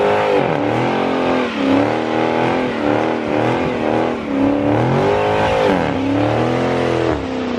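Dodge Charger Scat Pack's 392 (6.4-litre) HEMI V8, mufflers deleted, being revved several times: loud exhaust note climbing and falling again and again.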